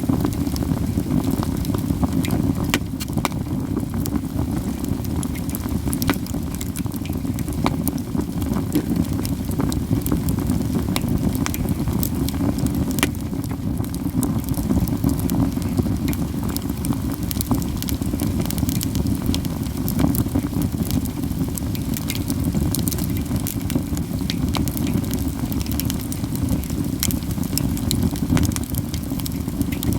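Katsura wood burning in a campfire: constant crackling with many sharp pops scattered irregularly throughout, over a steady low rush.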